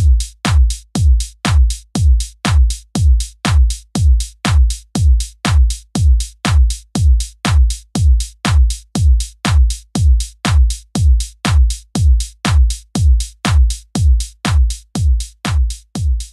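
Electronic background music: a steady drum-machine kick drum beating about twice a second, with little else over it.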